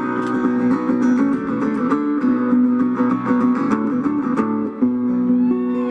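Fast-picked acoustic string instrumental, a mandolin lead over guitar, with quick runs of notes. It settles onto a held, ringing chord near the end.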